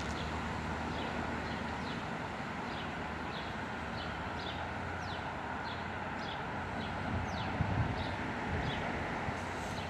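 Steady rumble of a departing diesel Regio passenger train, with a bird calling over it in short, repeated falling chirps about twice a second. A few low bumps come in near the end.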